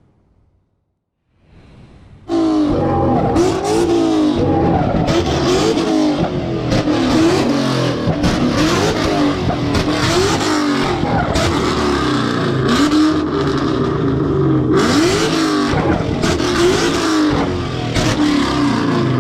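A vehicle engine revved hard over and over, its pitch climbing and dropping again every second or so, over a loud rushing noise. It cuts in suddenly about two seconds in after near silence.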